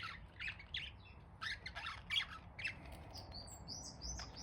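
Budgerigars chattering: a quick run of short, scratchy chirps, with a few higher whistled notes near the end.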